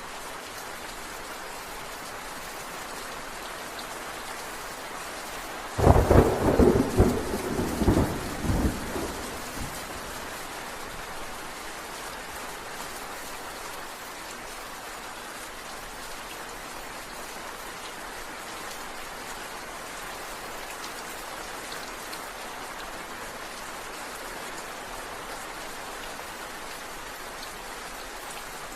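Steady rain falling, with a clap of thunder about six seconds in that crackles and rumbles through a few loud peaks for about three seconds before fading back under the rain.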